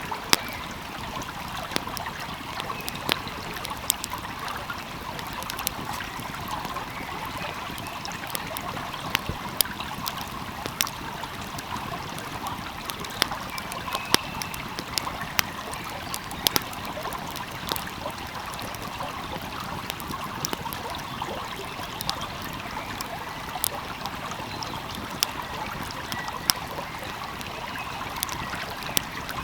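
A calmly flowing stream rushing and trickling steadily, with a wood fire crackling in sharp, irregular pops over it.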